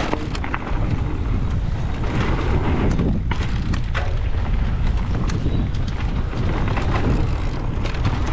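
Strong wind buffeting the microphone as a heavy low rumble, while a mountain e-bike runs fast down a dirt trail with scattered knocks and rattles from the tyres and frame.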